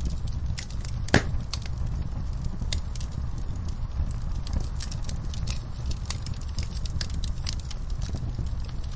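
Wood fire crackling in a fireplace: frequent sharp pops and snaps, one louder pop about a second in, over a steady low rumble.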